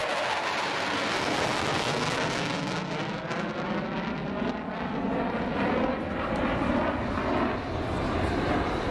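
F-15 fighter jet flying past in full afterburner: a steady jet-engine roar with a slowly sweeping, wavering quality as it passes.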